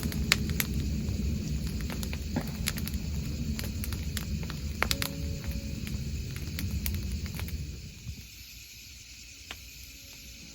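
Bonfire burning, with a low rumble of flames and many sharp crackles and pops; about eight seconds in the rumble drops away, leaving a quieter hiss with occasional pops.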